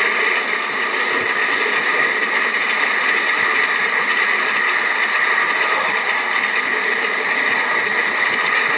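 Moving train carriage running on the rails: a steady, even rattle and rumble with no distinct blows standing out.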